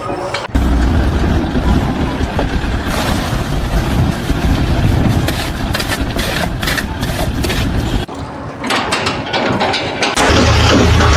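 A heavy engine running with rattling and knocking. The sound changes abruptly about half a second in, again near 8 seconds and again near 10 seconds.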